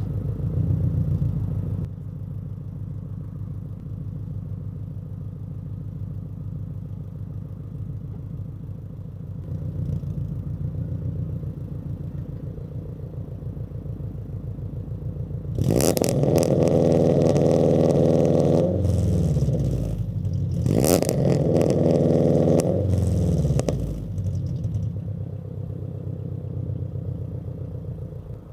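2022 Subaru BRZ's 2.4-litre flat-four running through a fully catless exhaust (Tomei unequal-length headers, Berk catless front pipe, Greddy RS exhaust), idling with a short blip at the start. In the second half it is revved up and held twice, about three seconds each time, and drops back to idle after each.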